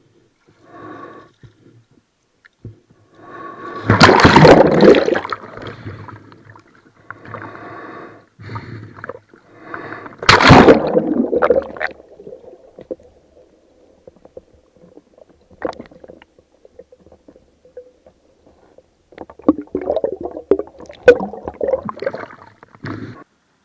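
Paddling a small boat on the water: paddle splashes and water sloshing and gurgling against the hull, with two loud splashes about four and ten seconds in and a run of smaller splashes and knocks near the end.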